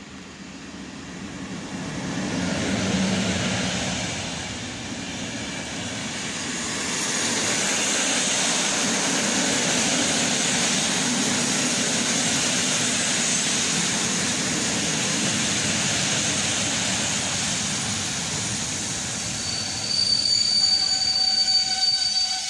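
Electric locomotive and its passenger coaches passing along a station platform. The locomotive's approach builds to a peak about three seconds in, then the coaches' wheels roll steadily over the rails. A high squeal rises over the rolling in the last few seconds.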